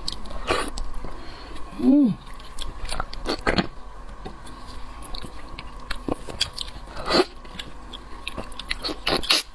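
Close-miked eating of seafood: biting, chewing and wet mouth clicks with occasional crunches, plus a short falling hum from the eater about two seconds in.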